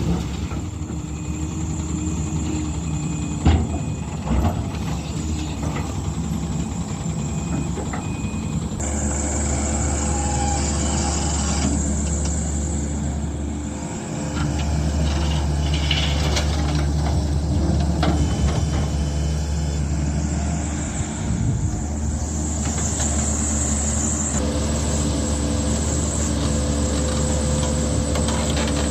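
Diesel engine of heavy earthmoving machinery running steadily, with a couple of sharp knocks about three and a half and four and a half seconds in. The engine sound changes abruptly about nine seconds in.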